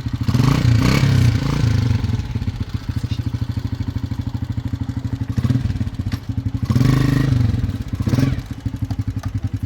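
Small motorcycle engine running with a rapid, even putter, rising in several short revs before settling back.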